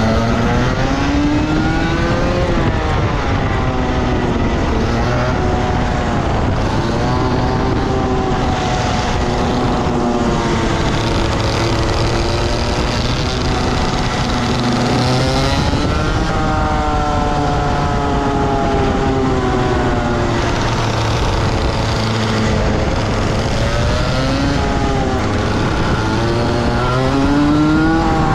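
Rotax Max 125 two-stroke kart engine at racing speed on track, its pitch climbing on the throttle and falling off several times through the lap, with long rises about a second in, around the middle and near the end.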